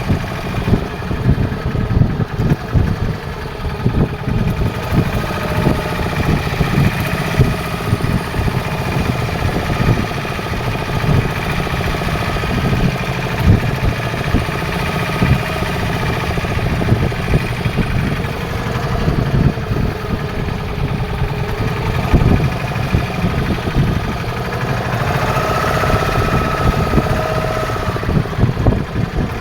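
Fishing boat's engine running steadily, with a continuous low, rapidly pulsing rumble.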